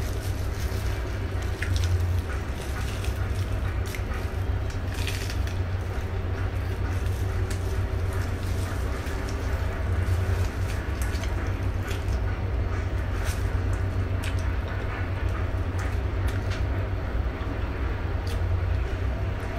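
Close-up eating sounds: chewing and crunching fresh lettuce leaves, with scattered short crunches and mouth smacks, over a steady low rumble.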